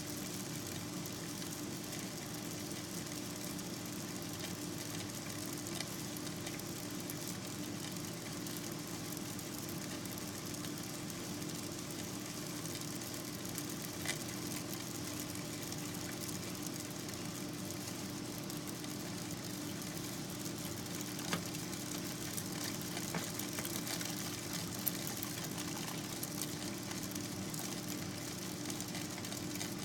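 Steady hiss with a low hum and a few scattered clicks and crackles, like the surface noise of an old recording.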